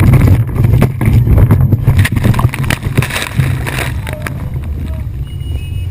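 Motorboat running at speed with a steady low rumble, rough knocks and gusty noise over the first few seconds before it settles.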